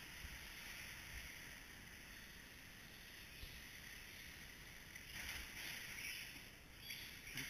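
Faint steady hiss of electric RC short-course trucks running on the track at a distance, swelling a little about five seconds in.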